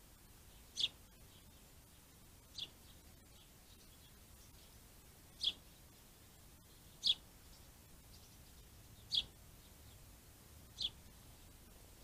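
A bird calling six times, each a short, high call spaced one and a half to three seconds apart, over a faint outdoor background hiss.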